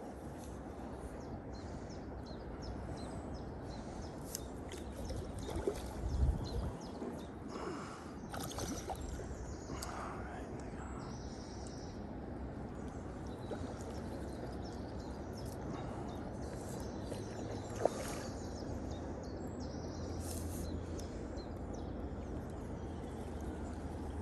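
Steady outdoor background noise with a few soft knocks and clicks, a louder bump about six seconds in, and a sharp click near eighteen seconds.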